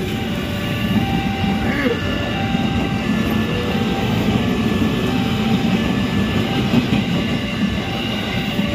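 JR 203 series electric commuter train rolling past, with steady wheel-on-rail noise and a light clatter. The level-crossing alarm sounds short repeating tones over it.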